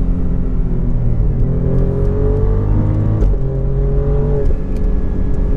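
Alfa Romeo Giulia Quadrifoglio's twin-turbo V6 accelerating hard under full throttle, heard from inside the cabin: the revs climb, drop sharply at a quick upshift about three seconds in, then climb again in the next gear.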